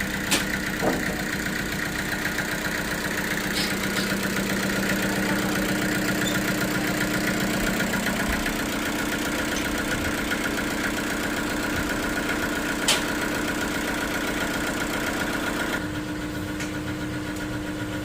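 Sawmill machinery running steadily with a constant hum, a few sharp knocks near the start and one about two-thirds of the way through; it drops a little in level near the end.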